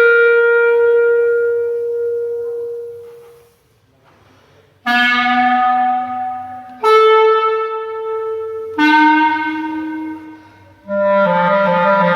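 Solo clarinet: a long held note dies away almost to silence, then a run of sudden, strongly attacked single notes, each fading after it starts, and near the end a loud low note that wavers rapidly.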